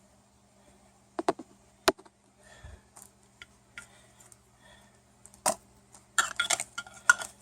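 Handling noises: a few separate sharp clicks and taps, then a quick run of rattling clicks near the end.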